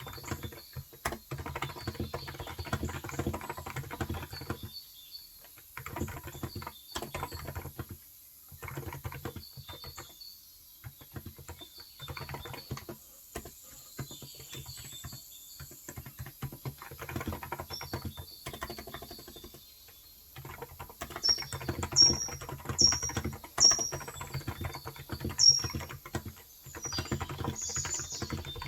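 Typing on a Cox Endeavour electro-capacitive (Topre-style) 35 g tenkeyless keyboard: runs of soft, rapid keystrokes with short pauses. About twenty-one seconds in, a bird gives five or six short, sharp chirps, louder than the typing.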